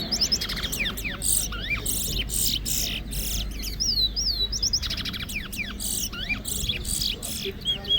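Caged towa towa finches singing in a song-count contest: quick, sliding whistles and chirps overlap with short, fast, buzzy trills. Two birds sing against each other.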